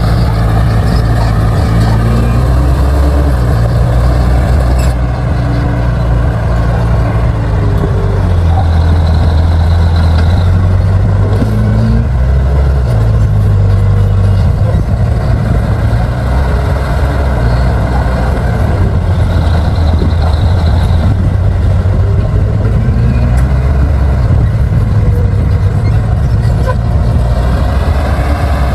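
Bulldozer's diesel engine running under load while pushing soil, a steady low drone whose pitch rises and falls a little. A faint high whine comes in twice.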